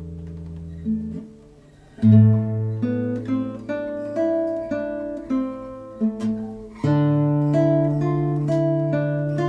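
Solo improvised music on a plucked string instrument: melody notes picked one after another over ringing bass notes. It thins out briefly about a second in, then a low bass note is struck about two seconds in and another just before seven seconds.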